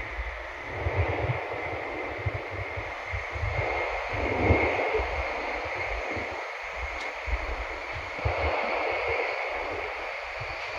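Running noise of a Nishi-Kyushu Shinkansen train heard inside the passenger cabin: a steady rush over a low rumble, with a faint constant high whine. The rush swells about four seconds in and again near the end.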